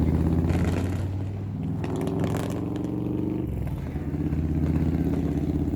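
A vehicle engine idling, a steady low hum whose note shifts slightly about three and a half seconds in.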